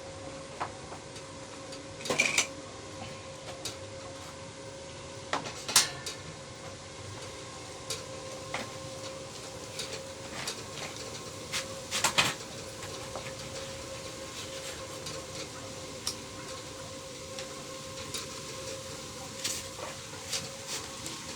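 Scattered metal clinks and clanks of steel parts being handled and knocked together, the loudest about two, six and twelve seconds in, over a steady faint hum.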